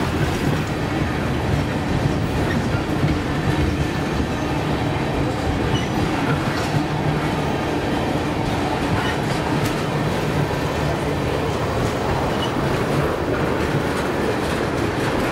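A long freight train of tank cars rolling past at low speed: a steady rumble of steel wheels on rail, with occasional clicks.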